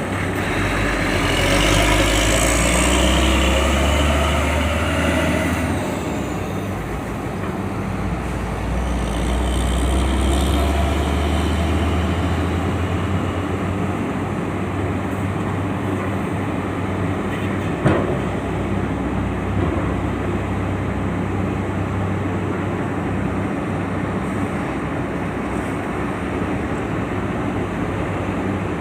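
Heavy vehicle engines running as trucks drive off a ferry: one passes loudly in the first six seconds and another swells up around ten seconds in. A single sharp knock sounds about eighteen seconds in.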